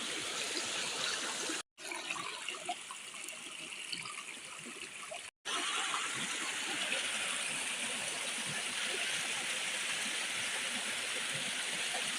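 Running water, a stream flowing steadily with small trickles and splashes, cut off to silence twice for a moment, about two seconds in and again about five seconds in.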